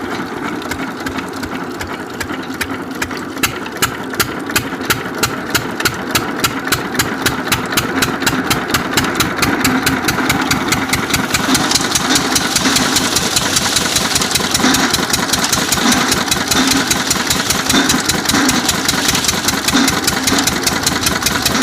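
Single-cylinder diesel engine of an 8 hp water pump, just started, running with distinct firing beats. The beats quicken over the first several seconds as it picks up speed, then settle into a steady, faster run.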